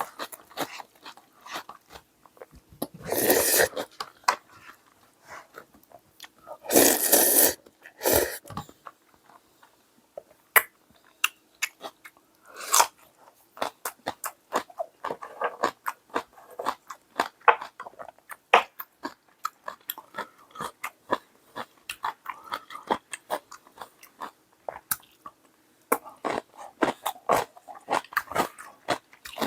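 A person eating close to the microphone: chewing and crunching with many small mouth clicks. There are two louder, longer noisy stretches about three and seven seconds in.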